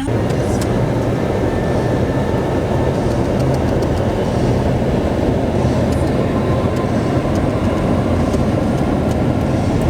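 Four-wheel-drive SUV driving through snow, a steady loud rumble of engine and road noise with a low hum.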